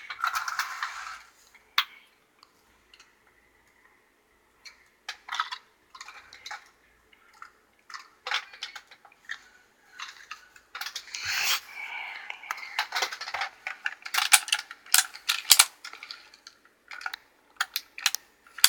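Irregular clicking and clattering of model train pieces being handled: small hard plastic and metal parts knocking together, with a short pause a few seconds in and busier clatter in the second half.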